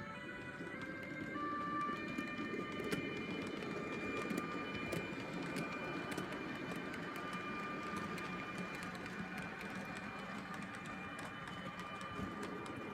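H0-scale model train running on the layout's track: a steady electric-motor whine over a low rolling rumble, with scattered small clicks from the wheels. Background music fades out about a second and a half in.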